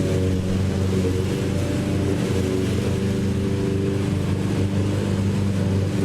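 Lawn mower engine running steadily at an even pitch and level.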